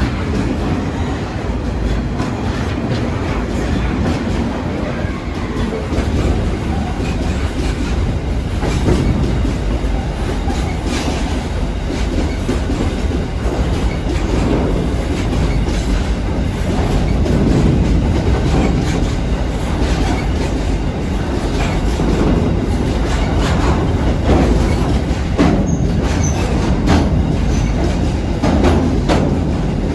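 Train running along the track: a steady rumble with a rapid, irregular clatter of wheels over rail joints.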